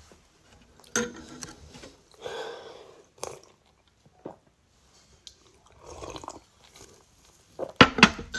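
Crunching and chewing of food with scattered small clicks and knocks, and a quick cluster of sharper clicks near the end.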